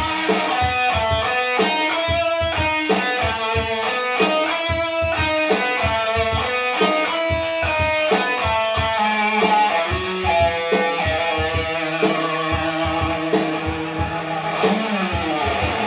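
Instrumental break of a rock song with no singing: electric guitar playing a line of quick, distinct notes over a steady beat.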